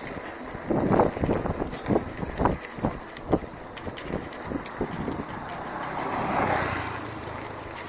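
Bicycle clattering and knocking as it rides over a rough dirt trail, with a rushing noise that swells and fades about six seconds in.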